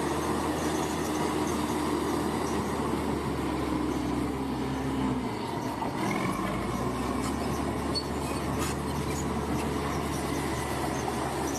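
Bulldozer's diesel engine running steadily under work, its low note dipping briefly about halfway through, with faint high squeals over it.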